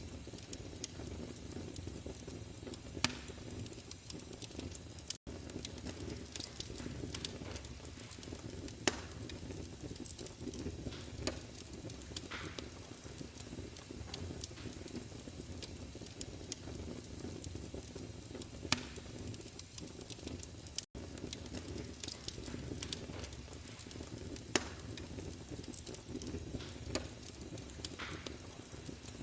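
Wood fire crackling in a fireplace: a steady low rumble of burning with a sharp pop every few seconds. Twice the sound drops out for an instant.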